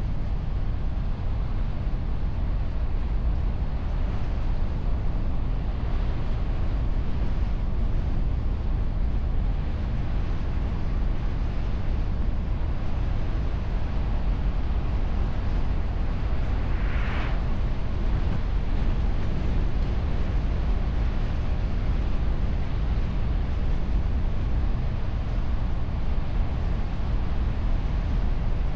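Steady wind and road noise of a car driving, picked up by a camera on the bonnet behind a wind muff: a constant low rumble. A brief higher hiss rises over it once, about two-thirds of the way through.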